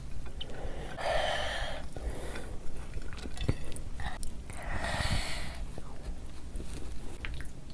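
Close-miked eating sounds of spicy chicken kaleji being chewed, with wet mouth clicks throughout. Two longer breathy sounds come about a second in and about five seconds in.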